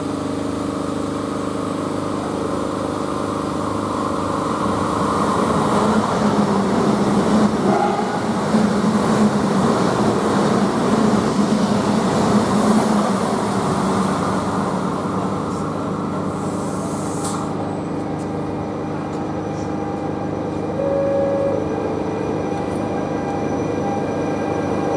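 Electric passenger train running past close by at speed. Its rumble and wheel noise build over the first few seconds, are loudest around the middle, then fade, leaving a steady hum underneath.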